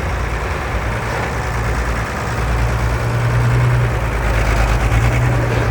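Muir Hill 121 four-wheel-drive tractor's diesel engine running steadily, a little louder from about halfway.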